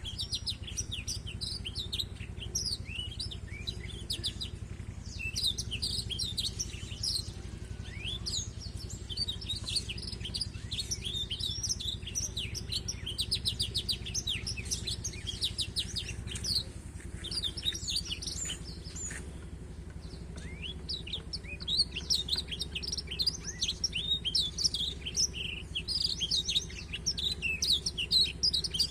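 Small finch singing a long, fast, twittering song of rapid chirps and trills with hardly a pause. It is the song of the African black-throated canary (blackthroat), used as the tutor song for a young domestic canary. A steady low hum lies underneath.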